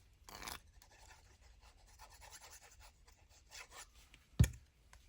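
Soft rustling and rubbing of paper cards being handled and lined up, with one sharp tap about four and a half seconds in.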